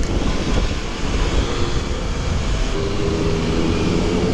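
Motorcycle engines running at riding speed, with wind rushing over a helmet-mounted microphone. About three seconds in, a steady engine note becomes more prominent.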